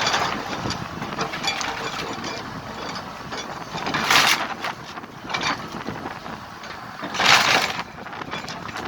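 Heavy machinery working, with a rattling, grinding mechanical noise and two short loud bursts of noise about four and seven seconds in.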